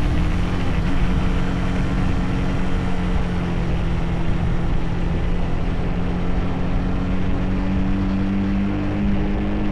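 Motorcycle engine running at a steady pitch during a ride, over a dense low rumble of wind noise.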